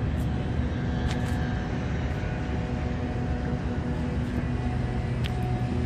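Semi truck's diesel engine idling steadily, a low even hum, with a few faint light ticks over it.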